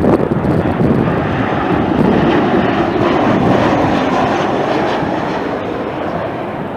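Jet airliner's engines rumbling as it passes, the sound slowly fading away.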